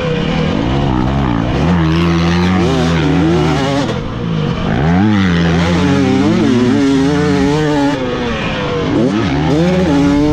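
Dirt bike engine being ridden hard, its pitch climbing and dropping again and again as the throttle is worked. The throttle is chopped and reopened about four seconds in and again near nine seconds.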